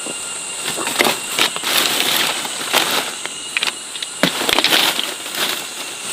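Irregular crackling and rustling, with a steady high insect buzz behind it.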